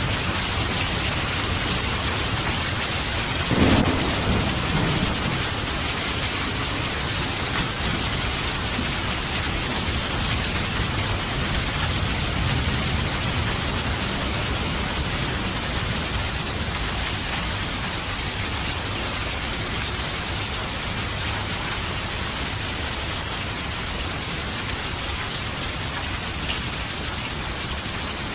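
Steady heavy rain with thunder: a sharp thunderclap about three and a half seconds in that rolls off into a low rumble over the next couple of seconds, and fainter rumbling later on.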